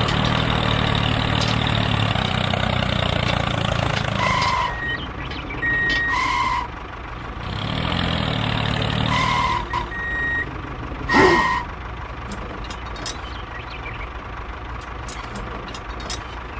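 Mini tractor's engine running with a steady low hum, then four short beeps, like a reversing alarm, spread over the next several seconds. The last beep comes with a quick rising and falling whistle-like glide.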